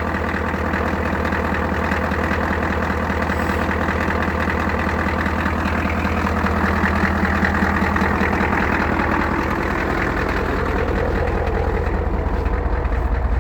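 1988 Ford F-Super Duty's 7.3 L IDI V8 diesel idling steadily with a fast, even clatter, warming up after a really cold start.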